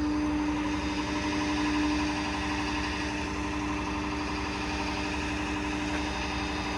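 Vehicle engine idling steadily, with a constant droning tone over it.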